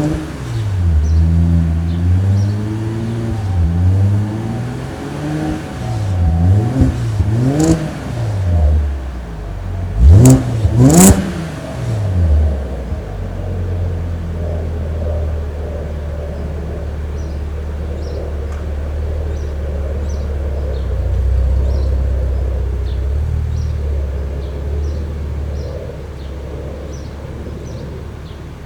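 2013 Audi S4's supercharged 3.0-litre V6 through a modified exhaust (test pipes, two Magnaflow mufflers and a Borla X-pipe), blipped in a series of short revs over the first twelve seconds, the sharpest two near the middle, then settling to a steady idle. The engine is cold, so the revs are kept light.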